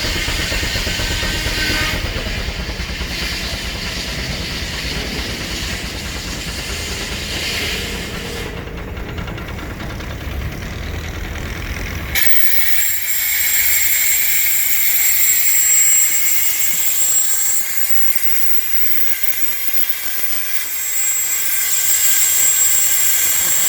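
Steam traction engine running belted to a sawmill, with a rapid low chuffing rumble. About halfway through the sound changes abruptly: the rumble drops away and a loud steady steam hiss remains, with a thin high whine.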